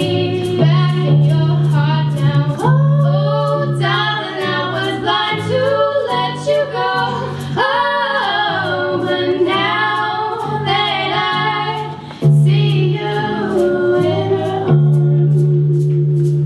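Song performance: a singer's voice over a backing track with a steady beat about two strokes a second and a sustained bass line.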